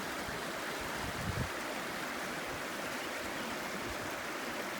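River water rushing steadily over rocks, an even unbroken rush, with a brief low bump about a second in.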